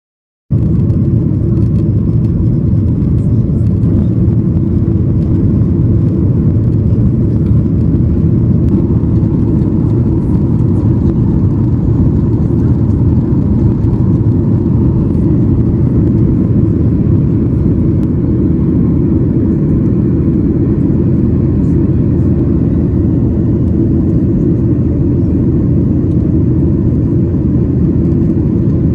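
Steady, loud low roar of a Boeing 737-800's jet engines and airflow heard inside the cabin, starting abruptly about half a second in.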